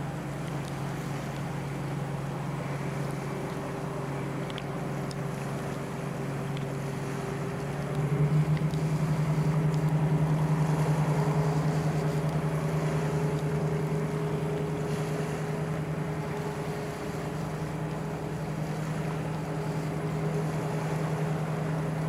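Vehicle engine running steadily with road and wind noise, heard from inside the vehicle; the low drone gets louder about eight seconds in.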